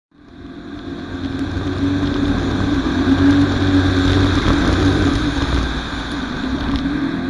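Fox-body Ford Mustang drift car's engine running hard at high revs while the car slides sideways, a steady, loud engine note that fades in over the first second.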